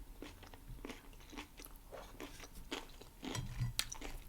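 Close-miked chewing of a mouthful of burger, with soft wet mouth clicks and small crunches at an irregular pace.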